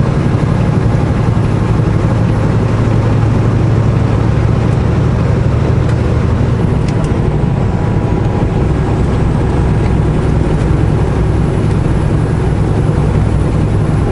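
Semi truck's diesel engine running at a steady cruise, heard from inside the cab as a constant low drone, with road and tyre noise under it.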